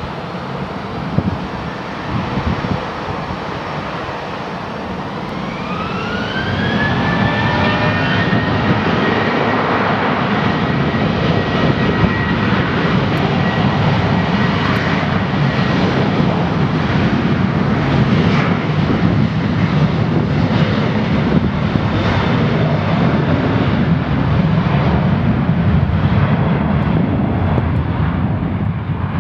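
Boeing 737-800's CFM56 turbofan engines spooling up to takeoff thrust. A whine rises in pitch about five seconds in, then a loud, steady jet roar with a held whine carries through the takeoff roll.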